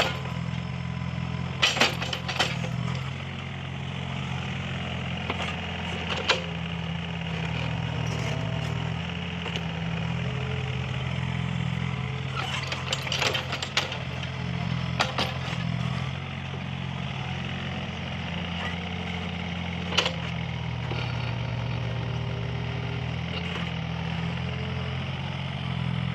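Mini excavator engine running under working load, its note stepping up and down every few seconds, with sharp knocks now and then.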